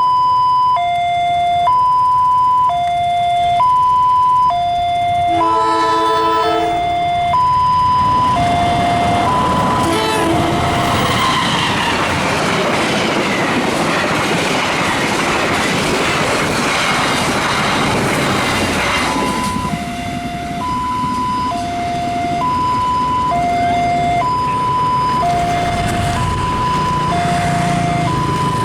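Railway level-crossing warning alarm alternating between two tones, about one per second. A long Indonesian train's horn blows once about five seconds in, with a brief second blast near ten seconds. The train then passes with rumbling and wheel clatter for about ten seconds, drowning the alarm, which is heard again in the last third.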